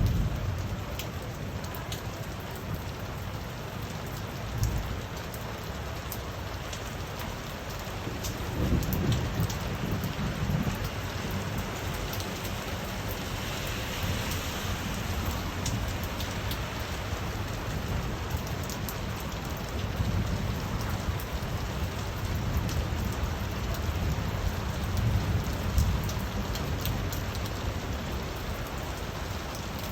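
Steady rain falling, with individual drops ticking sharply on hard surfaces. Low rumbles swell about a third of the way in and again in the last third, and the hiss of the rain grows briefly heavier near the middle.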